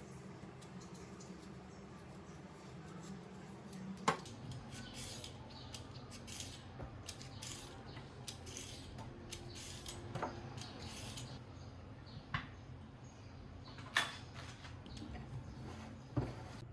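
Quiet handling sounds: soft rustling with a few light clicks and knocks, over a low steady room hum.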